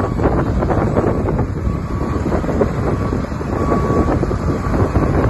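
Wind buffeting the microphone: a loud, uneven, gusty rumble.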